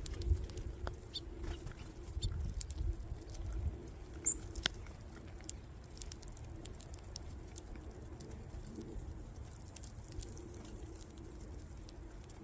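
Light rain pattering: scattered, irregular drops ticking, over a low rumble.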